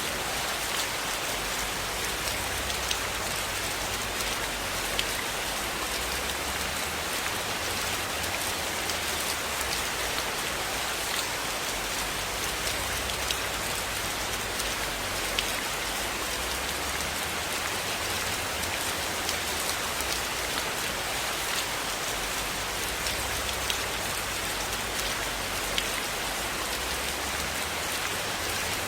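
Steady rain falling, an even hiss with scattered sharp clicks over it.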